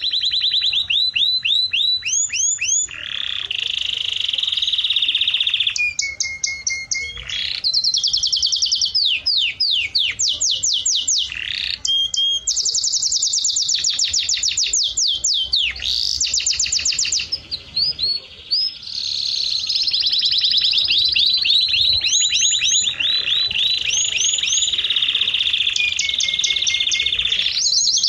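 A songbird singing a long, nearly unbroken song of fast high-pitched trills: rapid runs of repeated sweeping notes that switch to a new trill every second or two, with a few short breaks.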